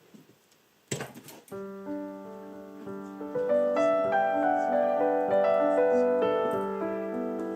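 Background piano music starts about a second and a half in, with slow sustained notes over a steady low note. Just before it comes a brief burst of sharp clicks.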